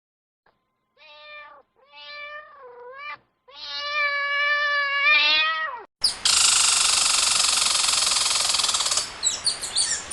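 Domestic cat meowing three times, each meow longer than the last, the third drawn out over about two seconds. It gives way to a louder, steady rasping noise lasting about three seconds, then quick chirps near the end.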